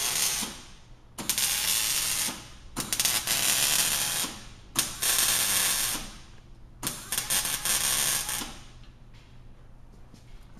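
A power wrench runs in several short bursts of one to two seconds each, with short pauses between them, as fasteners on a Fiat 500 Abarth's exhaust system are worked.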